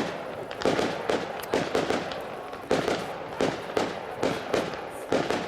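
Large fireworks display: a continuous run of sharp bangs, about two or three a second, with noise filling the gaps between them.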